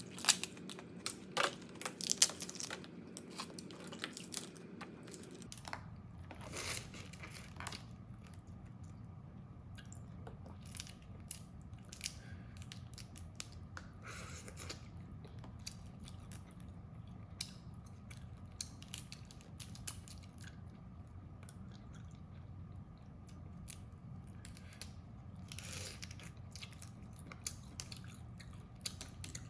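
Eating crab: several sharp cracks of crab shell being bitten in the first few seconds, then chewing with scattered small crunches and clicks over a steady low hum.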